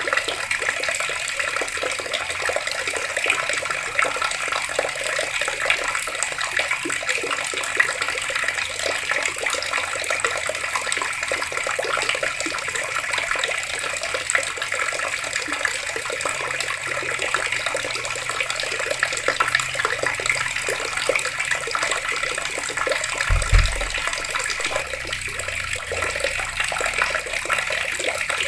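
Water running steadily from taps and splashing, an even rushing hiss, with one brief low thump near the end.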